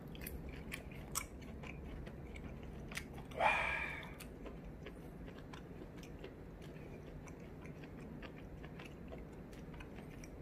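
A person chewing pieces of medium-rare striploin steak close to the microphone, with many small sharp mouth clicks and smacks, and one louder, brief sound about three and a half seconds in.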